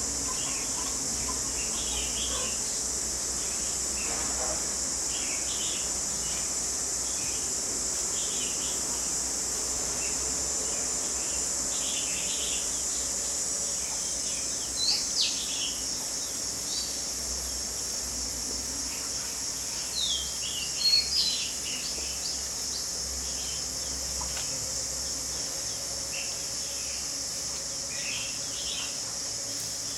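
Steady high insect or cricket drone with small birds chirping on and off, and a few sharper, louder bird calls about halfway through and again a few seconds later.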